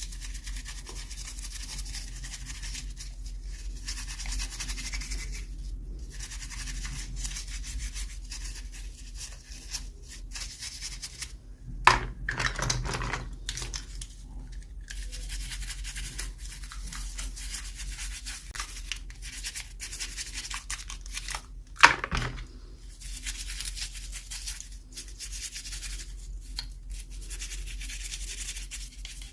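Hands rubbing and scratching at toy packaging during an unboxing, with two sharp loud snaps, about ten seconds apart.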